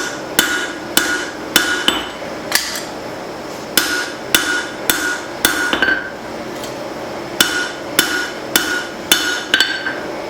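Hand hammer striking hot leaf-spring steel on an anvil, forging it thinner. The blows come in runs of four or five, a little under two a second, with short pauses between runs, and each blow rings.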